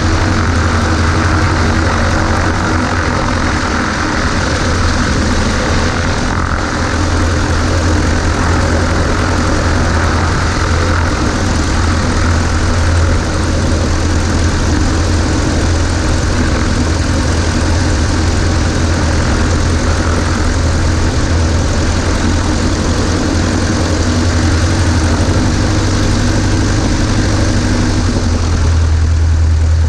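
Cessna 140A's four-cylinder Continental engine and propeller running at a steady, unchanging pitch, with a strong low drone and a broad rushing noise over it.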